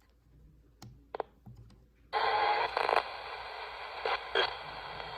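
A few small clicks, then about two seconds in a ghost box radio (the '470') comes on sweeping the AM band: a steady hiss of radio static broken by several short, louder bursts of noise.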